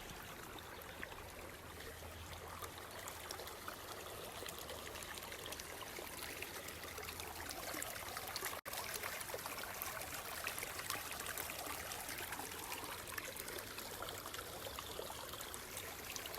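Running water of a stream or creek, a steady rushing and trickling, with a momentary break about halfway through.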